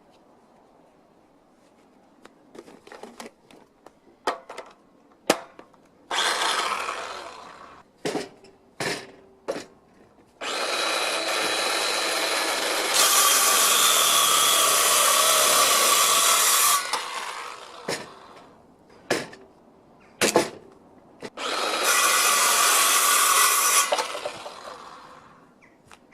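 A power tool runs in three bursts: a short one, then a long steady run of about six seconds that gets louder partway through, then a shorter run near the end. Between the runs there are sharp knocks and clatter from handling.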